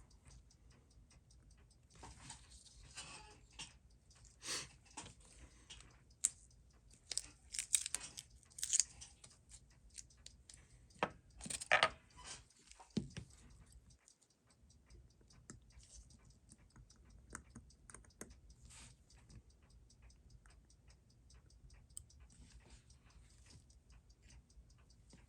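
Steady fast ticking of a running mechanical watch, with irregular small clicks and scrapes of tools and metal watch parts being handled for the first half or so.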